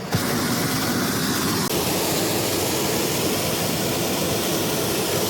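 Hot air balloon's propane burner firing in one long blast: a loud, steady rushing hiss that starts suddenly.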